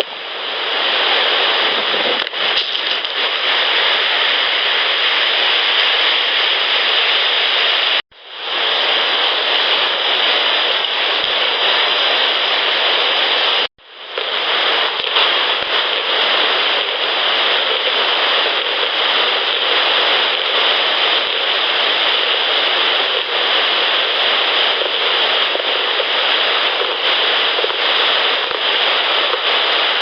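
Loud steady hiss of a heavily amplified night-time field recording, broken by two abrupt cuts about eight and fourteen seconds in. Faint clacks, which the recordist wonders may be rocks, and a faint scratching sound show through the hiss.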